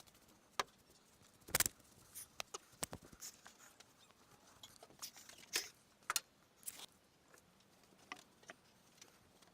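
Scattered light clicks and taps at irregular intervals, the loudest about one and a half seconds in.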